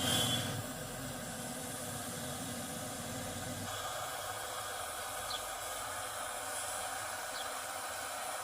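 Air conditioner running with a steady hiss and a low hum; the low hum drops away a little under four seconds in.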